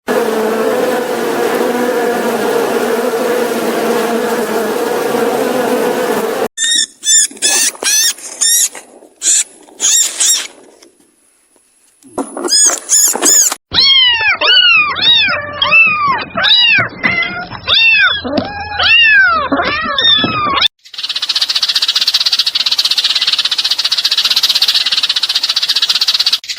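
Several different animal calls cut together one after another. First comes a steady noisy stretch, then sharp high chirps in quick groups, then a dense run of squeaky calls that rise and fall in pitch, and finally a steady high-pitched buzzing hiss.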